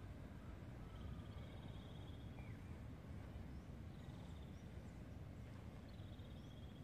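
Faint outdoor ambience of small birds: about a second of buzzy high trill every couple of seconds, with a few brief chirps, over a steady low rumble.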